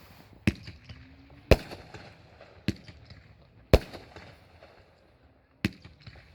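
Fireworks going off: five sharp, loud bangs at roughly one-second intervals, some followed by faint crackling.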